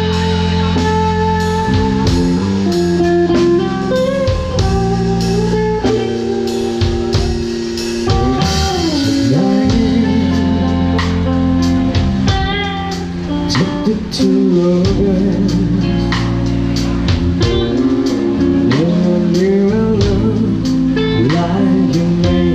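Band music: guitar playing over bass and a drum kit keeping a steady beat, with some notes bending in pitch.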